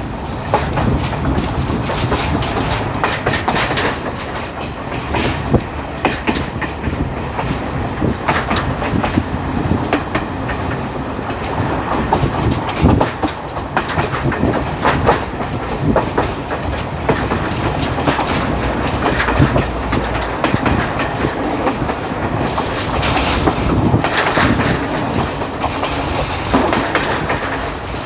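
Local passenger train running along the track, heard from on board: a steady rumble with the wheels clacking over rail joints.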